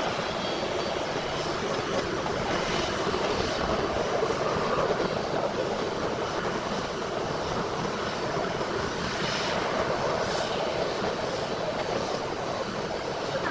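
Steady jet engine noise from an Airbus A340-600's four Rolls-Royce Trent 500 turbofans, an even rush with no sharp changes.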